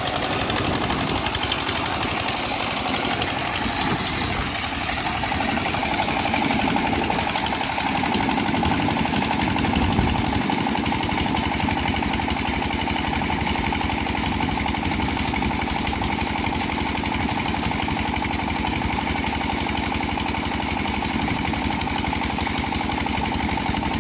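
An 8 hp diesel engine driving an irrigation water pump, running steadily with a fast, even beat.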